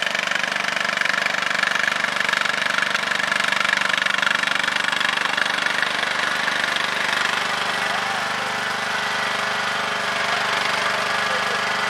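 A vehicle's motor running steadily at speed, a loud even hum with a dense rattly texture.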